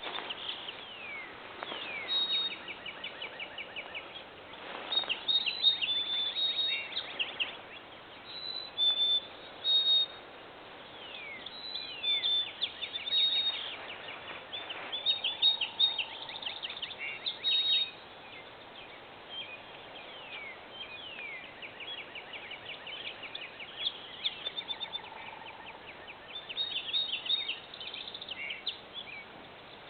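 Several songbirds singing and calling together, overlapping throughout: rapid runs of repeated short notes, trills and quick downward-sweeping chirps.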